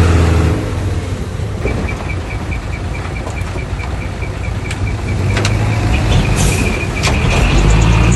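Heavy diesel earthmoving machinery working. An engine drones, loudest at the very start, and from about a second and a half in a rapid high squeak repeats about five times a second, with a few sharp metallic clanks and a brief hiss of air.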